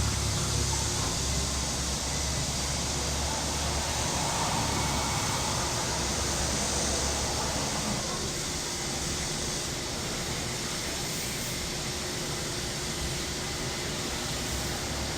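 Chorus of cicadas buzzing steadily, a high even hiss-like drone. Underneath, a low rumble of traffic that eases off over the first few seconds.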